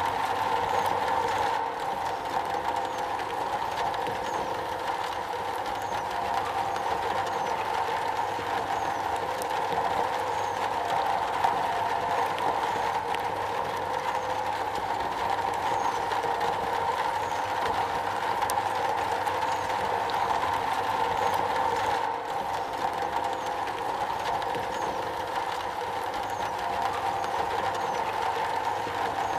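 Steady rain falling on a metal roof, an even patter that does not let up.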